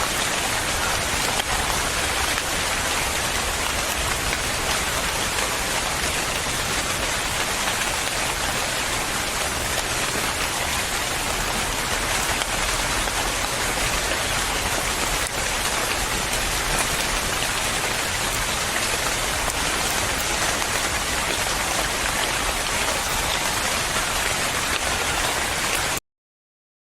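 Steady rain falling, an even dense hiss that cuts off suddenly near the end.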